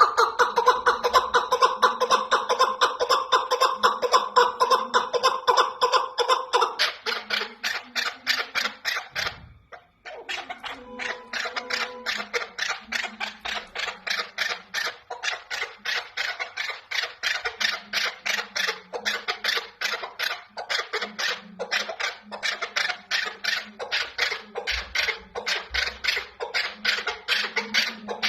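Female chukar partridge (chakor) calling: a long run of rapid clucking notes, about four a second, with a short break about ten seconds in.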